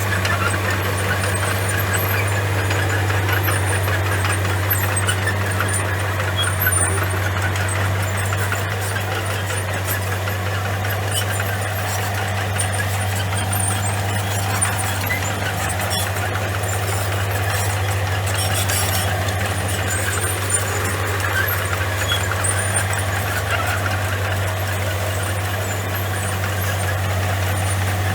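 Komatsu bulldozer's diesel engine running steadily: a low drone with a grinding, clattering noise above it.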